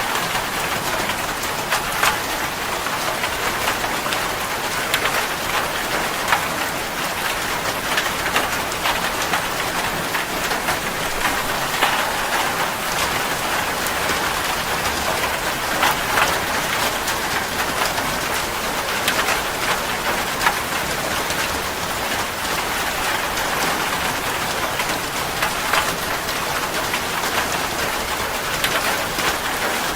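Steady rain falling on a surface: a continuous hiss with frequent individual drops ticking through it.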